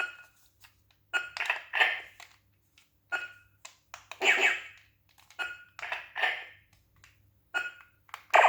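Toymax Laser Challenge laser-tag toy sound effects: a string of short electronic zaps and beeps from a small speaker, one with a falling pitch sweep about four seconds in, over a low electrical hum.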